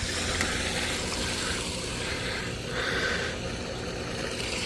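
Pool filter pump running steadily, its motor humming under the rush of water moving through it.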